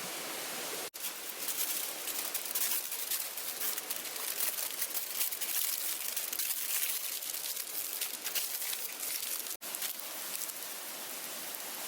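Aluminium foil being crumpled and folded by hand, a dense crinkling that comes in irregular handfuls over a steady hiss.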